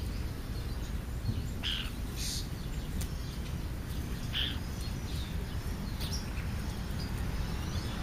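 Wild birds calling: several short calls, a second or two apart, over a steady low outdoor background noise.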